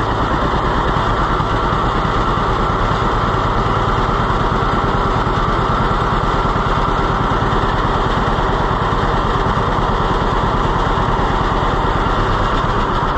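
John Deere B's two-cylinder engine running steadily after a restart on its freshly rebuilt carburetor, its firing beats even and unchanging.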